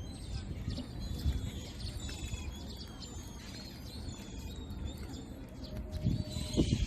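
Birds chirping and calling in many short chirps and trills over a steady low rumble, with a couple of dull thumps near the end.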